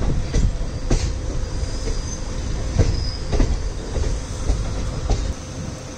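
Passenger train running on the rails, heard from inside the coach: a steady low rumble with a few sharp, irregular clacks of the wheels over rail joints and a faint high wheel squeal. The rumble drops near the end.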